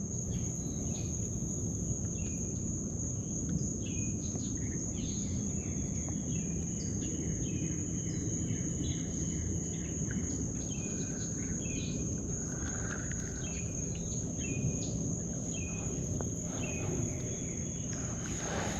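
A steady, high-pitched insect trill runs on without a break. Many short, falling bird chirps come and go over it, above a low background rumble.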